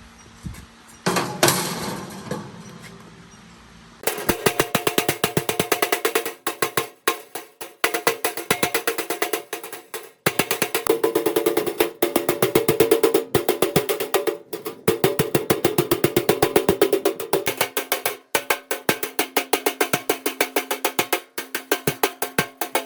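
Metal being struck repeatedly with a hammer: a single hard knock about a second in, then from about four seconds fast, even runs of several blows a second with short pauses between them, each blow ringing.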